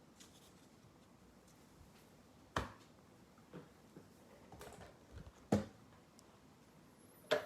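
Trading cards and pack packaging being handled: soft rustling and three sharp taps, about two and a half, five and a half and seven seconds in.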